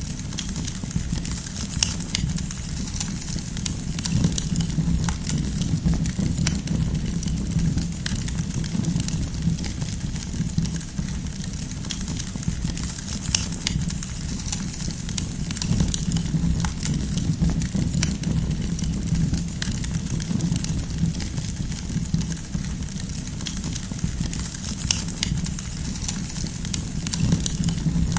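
Wood campfire burning, with a steady low rumble of flame and irregular sharp crackles and pops from the firewood.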